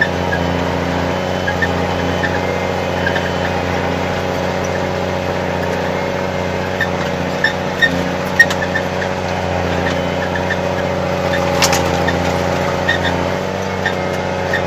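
Snowcat grooming machine's engine running steadily, with a few sharp clicks.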